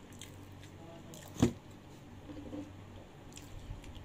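Mouth sounds of a person chewing food, soft and wet, with one sharp loud click about a second and a half in and a few small clicks later.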